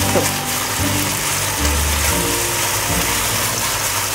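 Pork and eggplant sizzling in a hot frying pan as they are stir-fried with chopsticks, a steady hiss of frying. Background music with low held notes plays under it.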